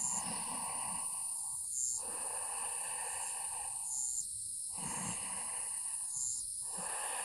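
Insects chirring: a steady high-pitched trill with a lower buzzing chorus that breaks off briefly every couple of seconds.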